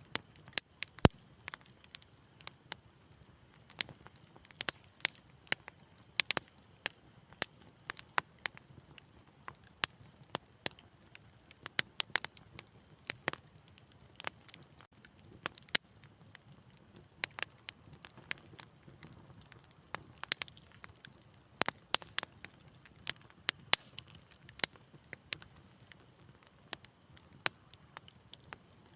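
Wood fire in a fireplace crackling: irregular sharp pops and snaps, several a second, over a faint low hiss of burning.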